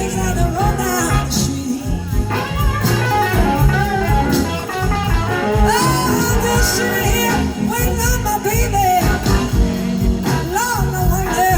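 Live band playing a slow blues, with electric guitar notes bending and sliding in pitch over the rhythm section.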